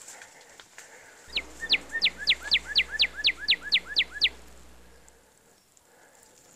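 A bird calling in the forest: a rapid run of about a dozen sharp, high, downward-sliding notes, about four a second, starting about a second in and lasting about three seconds.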